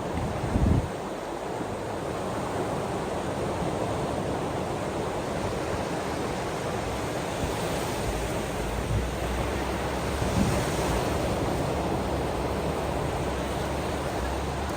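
Ocean waves washing steadily onto the shore, with wind buffeting the microphone and a brief low thump under a second in.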